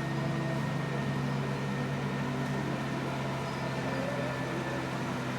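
Truck engine running with a steady low hum.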